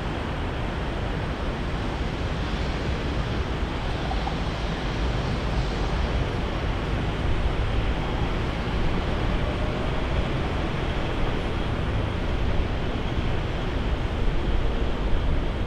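Jet airliner engines, a steady rumble that slowly swells toward the end.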